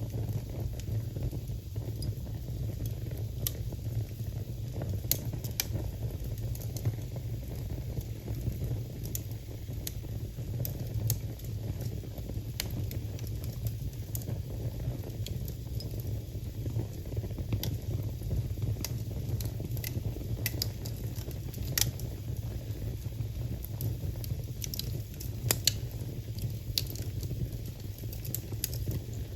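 Wood fire burning in a fireplace, with irregular sharp crackles and pops over a steady low rumble. The crackles come a few every couple of seconds, with two louder pops late on.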